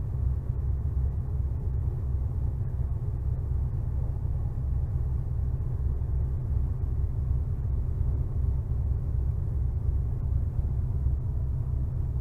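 Steady low drone of a ferry's engines heard on board, with an even throb.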